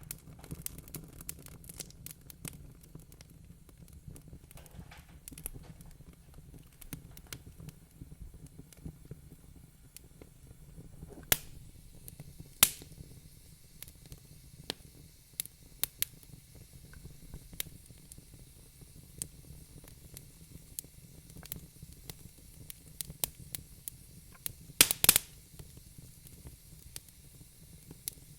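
Wood fire crackling in a fireplace: a steady low rumble and soft hiss with irregular sharp pops, including a few loud snaps about eleven and twelve seconds in and a quick cluster near the end.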